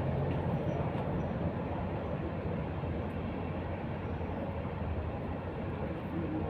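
Roller's engine running steadily, a low, even mechanical drone.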